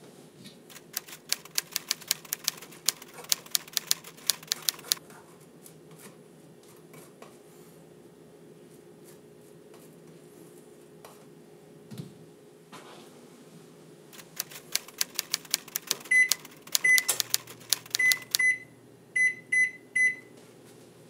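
A butter knife scraping margarine onto a slice of bread in quick strokes, twice. Near the end, about seven short high beeps from an LG electric range's touch controls as the burner is set to medium-high, and a low hum starts.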